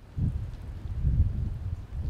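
Storm wind buffeting the microphone: a gusty low rumble that surges and dips, starting abruptly about a quarter second in.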